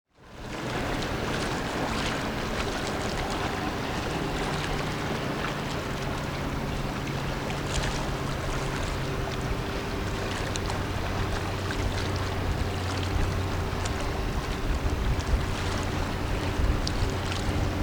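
Tugboat's engines droning steadily across the water, a low hum that shifts pitch partway through, under wind rushing on the microphone.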